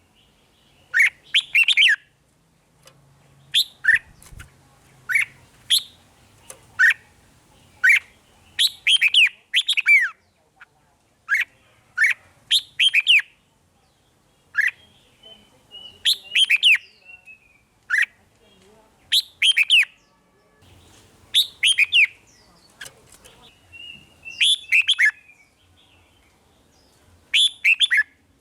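Red-whiskered bulbul singing: short, bright, sweeping whistled phrases repeated every second or two.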